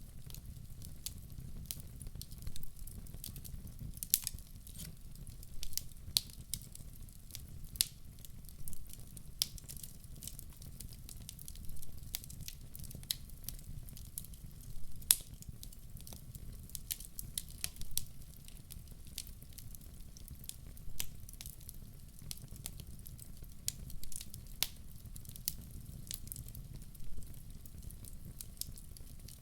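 Wood fire crackling in a fireplace, with irregular sharp pops, a few louder than the rest, over a steady low rumble of the flames.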